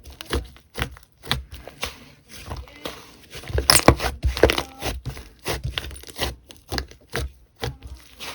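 Slime being squished and poked by hand, giving an irregular run of short clicks and crackles.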